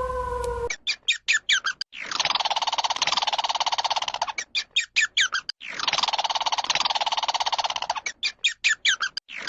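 A bird singing: a run of quick, short downward-sweeping chirps, then a long buzzy trill, repeated three times. It opens with the end of a held tone that cuts off suddenly.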